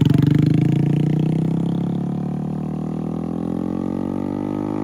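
Honda Grom's single-cylinder engine pulling away under throttle, its note falling slowly in pitch and fading as the bike rides off.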